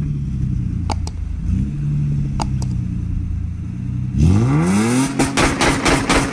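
Car engine running with a low, steady note, then revving up about four seconds in, rising in pitch and holding at a higher note. A few sharp clicks sound along with it.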